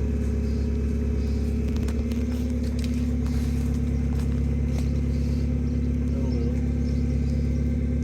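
A heavy vehicle's engine running steadily at a constant speed.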